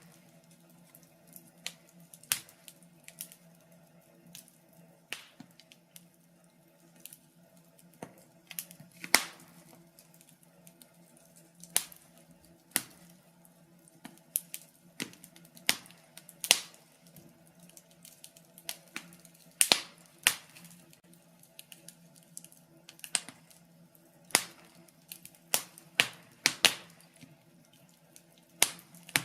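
Wood fire in a fireplace crackling: irregular sharp pops and snaps, several of them loud, over a faint steady low hum.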